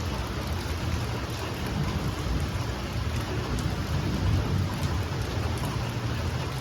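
Heavy rain falling steadily in a thunderstorm, with a low rumble underneath throughout.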